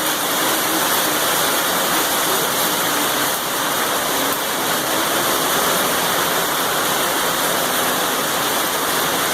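Heavy rain, a loud steady hiss that does not let up.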